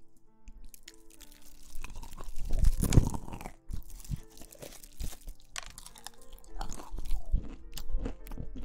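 Close-miked crunchy chewing and biting, with irregular crackly crunches, loudest about three seconds in, over soft background music.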